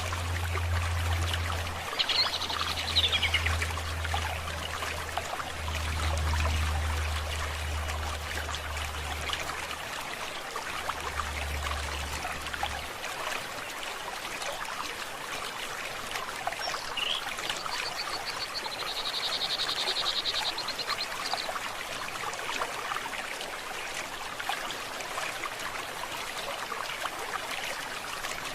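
A forest stream running steadily, with birds calling over it: a short falling call about two seconds in and a fast high trill lasting a few seconds about two-thirds of the way through. A low hum comes and goes in the first half and stops about thirteen seconds in.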